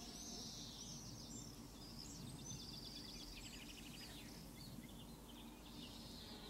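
Faint birdsong over a low, steady outdoor background hum: scattered chirps and short whistles, with a quick rattling trill about three seconds in.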